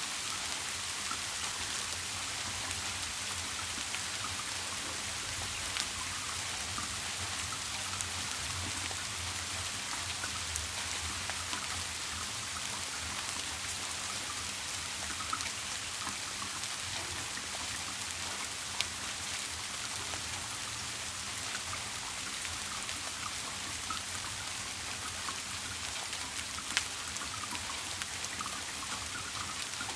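Steady rain: an even hiss of falling rain with scattered drop ticks, a few sharper single drops standing out now and then.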